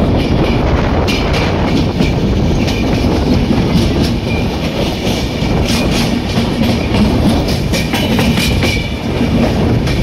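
A passenger train running along the line, heard from aboard its coach: a steady, loud rumble of wheels on rail, with uneven clicks as the wheels pass over rail joints.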